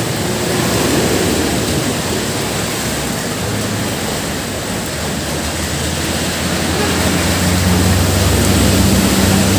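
Heavy rain pouring down, a dense steady hiss. A low hum rises under it about halfway through and is loudest near the end.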